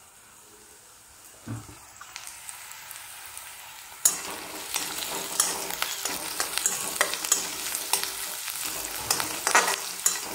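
Chopped onion, peanuts and green chillies frying in oil in a kadhai and being stirred, sizzling with short scraping strokes as the onion browns. The sizzling starts suddenly about four seconds in, after a quiet start with one soft knock.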